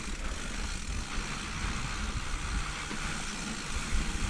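Wind buffeting the microphone over the tyre noise of a mountain bike riding fast down a dirt trail, with an uneven low rumble from the rough ground.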